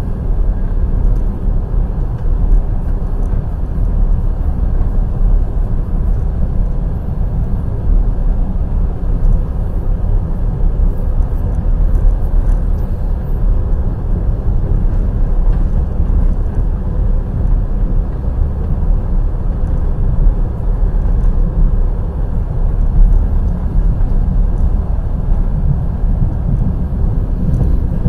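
Wheels of a passenger train running on the rails at speed: a steady low rumble that does not let up.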